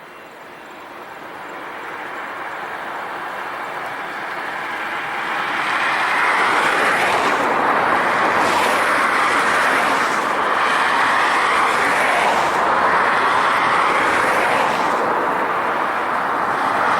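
Jet engines of a four-engine airliner at takeoff power, a rushing roar that grows steadily louder for about six seconds and then stays loud as the aircraft passes.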